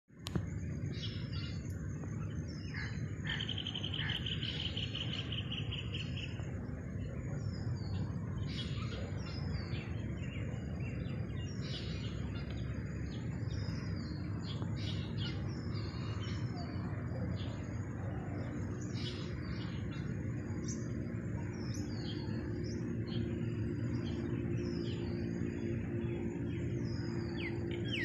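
Small birds chirping repeatedly in short calls over a steady low background rumble, with a buzzy trill lasting a couple of seconds about three seconds in.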